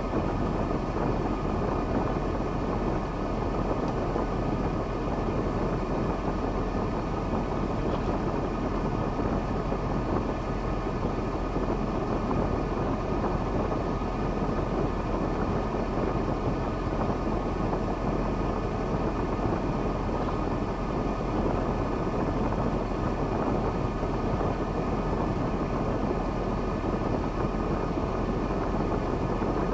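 Diesel engine of a KamAZ logging truck running steadily at an even level.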